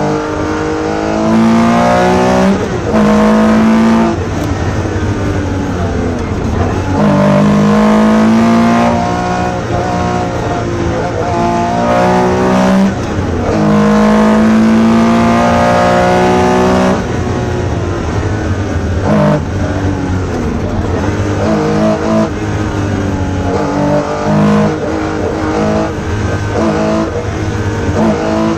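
Porsche 911 RSR's flat-six engine heard from inside the cabin under hard acceleration, its note climbing through each gear and dropping at every upshift. Loudest over three full-throttle pulls, with quieter stretches between them.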